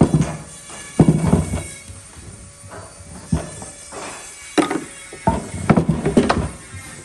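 A series of irregular knocks and thuds, about ten in all, some with a short ringing tail, like wood or tools being struck or set down in a workshop.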